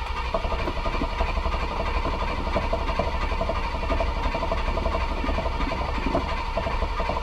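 1977 Ford Ranchero's 351 Windsor V8 engine turning over and running rough on start-up, starved of fuel. The owner says it sounds like a fuel problem, and the carburetor bowl turns out to have been left empty with its sight plug out.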